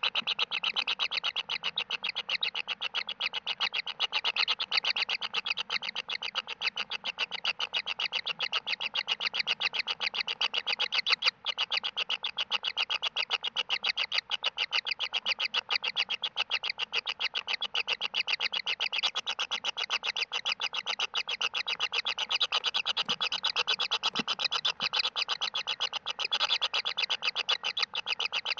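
Kingfisher nestlings begging: a fast, steady run of rasping calls, several a second, going on without a break.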